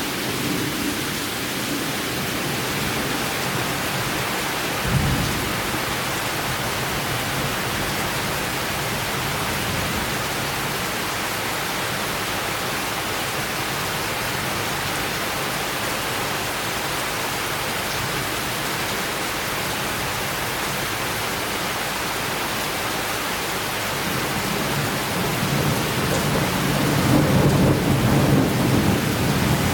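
Summer thunderstorm: steady heavy rain falling throughout. There is a brief thud about five seconds in, and a low rumble of thunder builds near the end.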